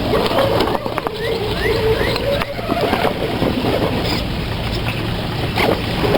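Radio-controlled trail truck driving, its small electric motor giving a wavering whine through the first half, with scattered clicks, short rising chirps and rattles throughout.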